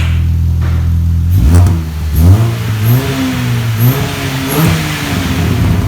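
Mini's engine idling through its newly fitted exhaust, then revved in several quick blips from about a second and a half in, settling back to a steady idle near the end.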